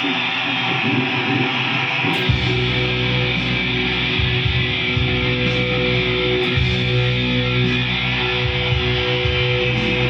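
Electric guitar playing the plain B minor opening chord, without an added F sharp in the bass, over a backing track. A heavy bass and drum part comes in about two seconds in under the held chord.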